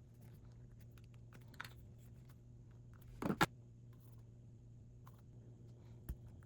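Small objects being handled: scattered light clicks and taps, a louder double knock about halfway through and a soft thump near the end, over a low steady hum.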